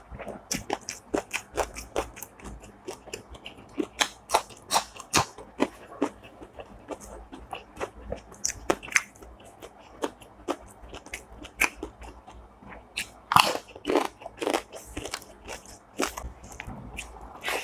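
A person chewing and crunching food close to the microphone: a quick, uneven run of crisp crunches and bites, with a few louder crunches late on.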